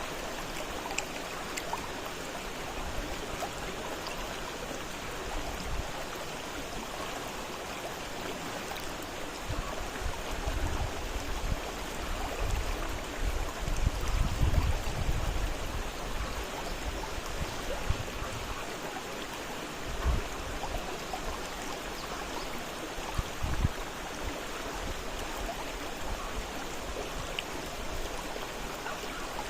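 Fast-flowing river rushing steadily. Bouts of deep low rumble rise over it in the middle and twice more later.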